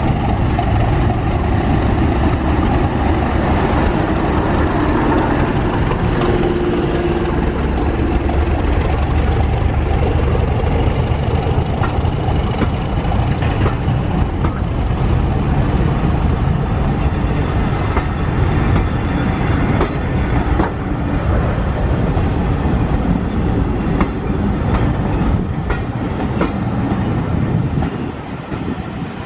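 A diesel-hauled passenger train passing close by: the diesel locomotive's engine goes by first, then the coaches roll past with a steady rumble and rhythmic clicks of wheels over the rail joints. The noise drops off somewhat near the end.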